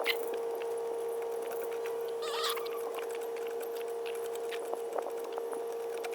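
A steady hum runs throughout. A short chicken call comes about two seconds in, with scattered light clicks.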